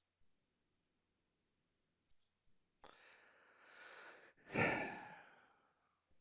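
A man draws a breath and lets out a long sigh, the out-breath the loudest part and trailing off, a sigh of frustration while waiting on a computer task.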